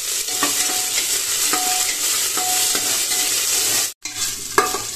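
Garlic-ginger paste, cumin seeds and dried red chillies sizzling in hot oil in an aluminium pressure cooker, with a metal spatula scraping against the pot as it is stirred. The sizzle breaks off for a moment about four seconds in, then comes back with sharper scrapes and taps of the spatula.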